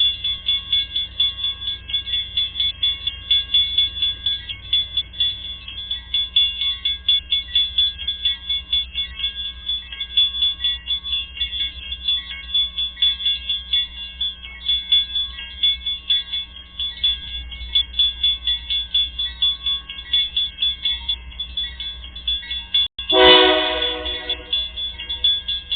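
Level-crossing warning bell ringing in a fast, even rhythm, about three strikes a second. Near the end a train horn sounds one loud, short blast that fades away.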